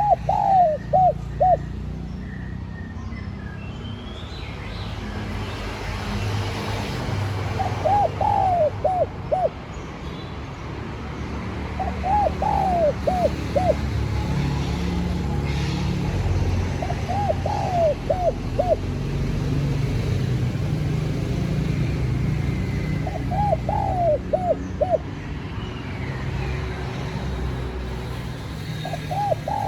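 Spotted dove cooing: short phrases of a few quick notes, repeated about every five seconds, six times, over a steady low rumble.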